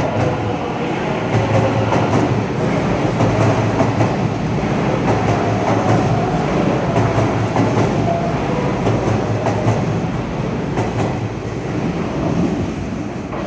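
Hanshin electric train rolling into an underground station platform, a steady rumble with wheels clacking over the rail joints as the cars pass.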